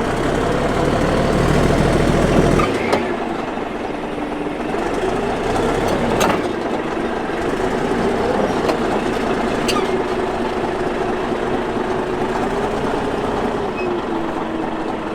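Caterpillar D8H bulldozer's diesel engine running, its pitch rising and falling as it is throttled while manoeuvring, with a heavy low rumble at first and a few sharp metallic clanks.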